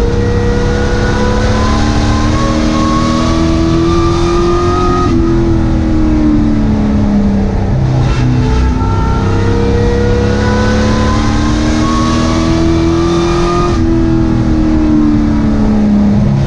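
Sport truck's racing engine heard from inside the cab, loud throughout. Its pitch climbs steadily as the truck accelerates, then drops off sharply and sags as the driver lifts. This happens twice: a lap cycle of accelerating down the straight and lifting for the turn.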